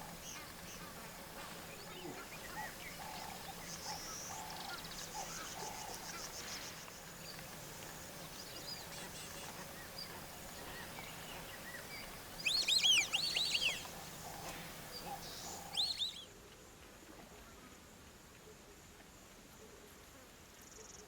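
Wild birds chirping and calling over a steady outdoor background, with a loud burst of quick rising-and-falling chirps a little past the middle and a brief one a few seconds later. The background turns quieter for the last few seconds.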